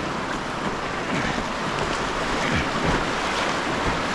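Shallow river riffle rushing and splashing steadily, with wind buffeting the microphone.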